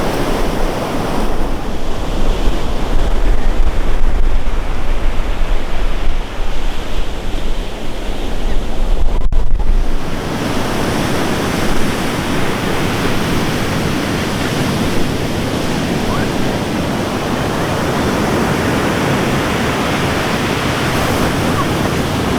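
Sea waves washing on a beach, with wind buffeting the microphone in gusts. About nine seconds in, the sound cuts to a steadier, even wash of surf.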